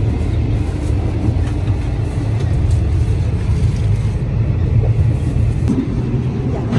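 Steady low rumble of a sleeper train carriage in motion, heard from inside the car.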